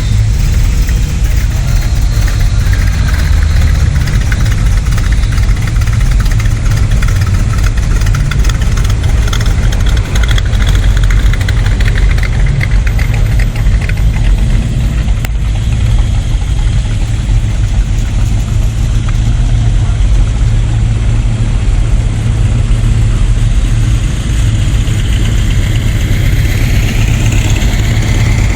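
Several cars' engines idling and running at low speed as a parade of cars drives slowly past, with a steady, loud low rumble of exhausts.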